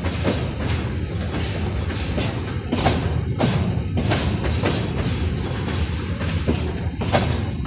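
Freight train hauled by a 2ES4K "Donchak" electric locomotive rolling past, with a steady low rumble and irregular sharp wheel knocks over the rail joints.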